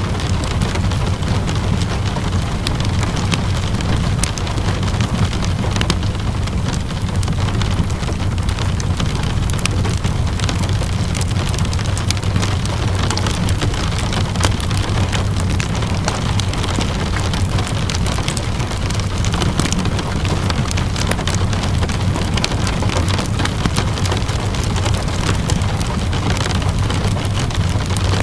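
Steady rainfall mixed with the scattered sharp crackles and pops of a wood fire, over a constant low rumble.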